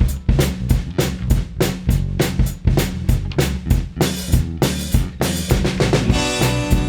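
Live band playing the song's instrumental intro: a drum kit keeps a steady beat of bass drum and snare over sustained low notes, with no singing.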